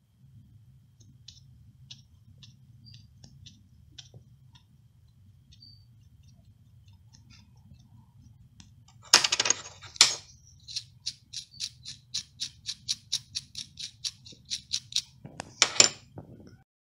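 Clicks and clatters over a low steady hum. There are faint scattered ticks at first, then two loud clatters about nine seconds in. A run of evenly spaced clicks follows at about four to five a second, and there is another loud clatter near the end.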